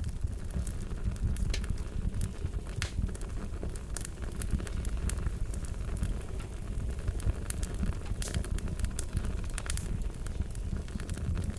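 Wood fire crackling: scattered sharp pops and snaps over a steady low rumble of burning.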